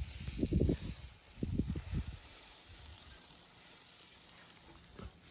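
Pancake batter sizzling in a hot pan, a steady hiss, with a few low bumps in the first two seconds.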